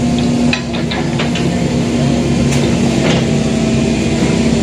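Excavator's diesel engine running steadily, with a few short clanks or knocks over it.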